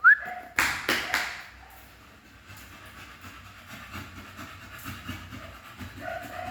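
A dog whimpering: a short rising whine at the start and brief whimpers near the end. Two loud hissing bursts come about half a second and a second in.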